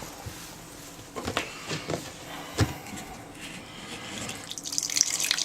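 Scattered knocks and clicks of hands and parts being handled at a washing machine's drain, then a rising hiss near the end as water starts to run out of the drain.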